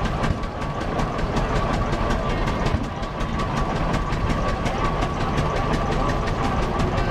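Vintage tractor engine running steadily, its exhaust giving rapid, even beats, with a thin steady high tone under it.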